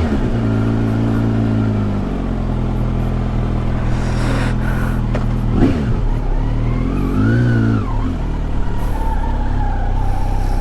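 Sport motorcycle engine running under way, its note holding steady, then dipping and climbing again several times as the bike changes speed, with a sharp drop and rise about six seconds in. A steady low rumble runs underneath.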